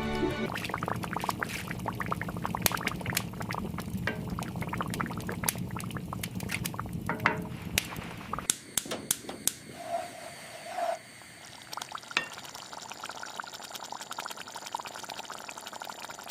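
Liquid bubbling and pouring with many small crackles and clicks. It grows quieter and sparser after about eight seconds, with two short squeaks partway through.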